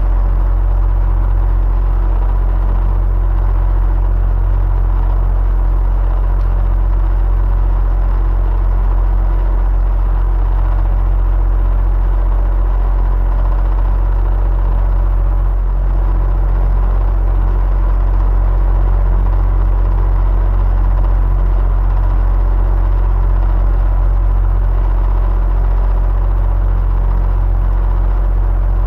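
Electric fan running steadily: a constant low rumble and whir with a faint steady hum on top, unchanging throughout.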